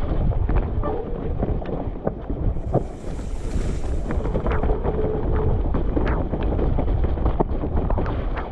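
Trek Remedy 8 full-suspension mountain bike riding a rough enduro trail, recorded on an action camera with heavy wind rumble on the microphone. Frequent sharp knocks and rattles come from the tyres and frame hitting roots and rocks.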